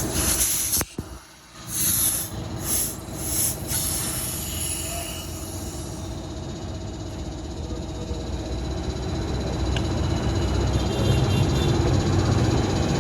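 Several short bursts of hissing air in the first few seconds, then a steady low vehicle rumble that grows slightly louder.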